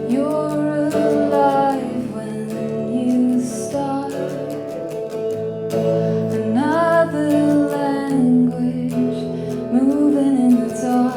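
A woman singing long held notes, with no clear words, over a guitar accompaniment in a live performance of her own song. Her voice swoops up into a phrase at the start and again about six and a half seconds in.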